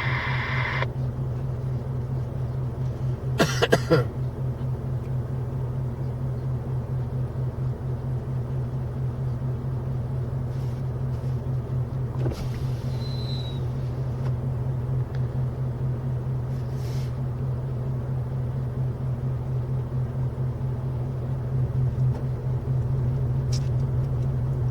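Steady low rumble of an idling car engine, with a short louder sound about three and a half seconds in.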